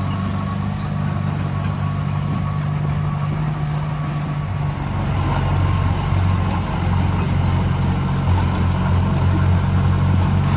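Diesel engine of earthmoving machinery running steadily. It grows louder and changes note about halfway through as it takes on load.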